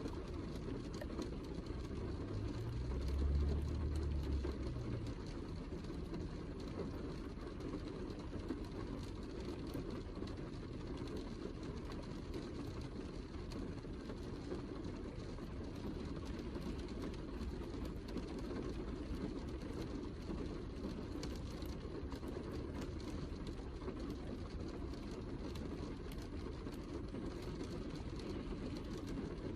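Steady heavy rain, a dense even hiss with scattered drop ticks. A low rumble swells briefly about three seconds in.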